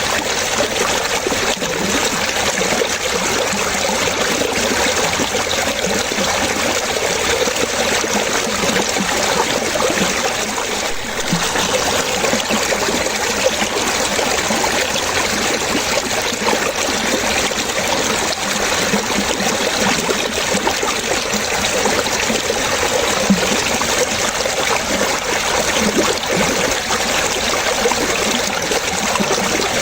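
Water running and splashing steadily, a continuous trickling flow with no breaks.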